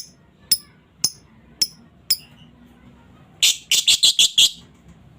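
Female lovebird calling: five sharp, high chirps about two a second, then after a short pause a loud, rapid run of about seven chattering notes, the 'ngekek' call.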